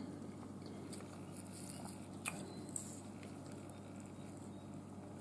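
Faint chewing of a mouthful of breaded, air-fried chicken, with a couple of small clicks a little over two seconds in.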